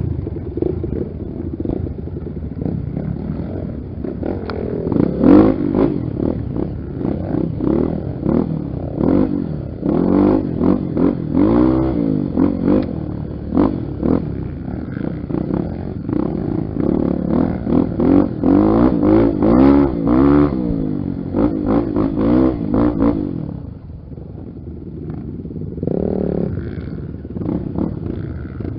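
Trail motorcycle engines revving up and down over and over. The revving drops away about 23 seconds in, leaving a quieter engine sound with one short swell near the end.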